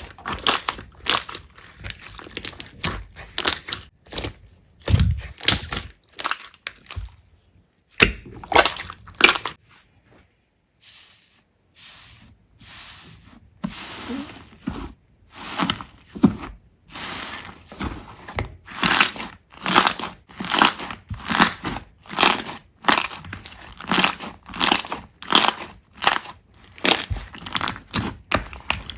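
Slime being squeezed and pressed by hand, giving a run of short crunchy pops and clicks. They come in irregular clusters, stop for a few seconds near the middle, then resume in a steady rhythm a little under two a second.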